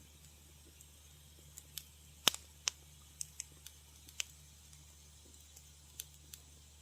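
Wood fire in a fireplace crackling: about ten sharp, irregular pops and snaps, the loudest a little over two seconds in, over a faint low steady hum.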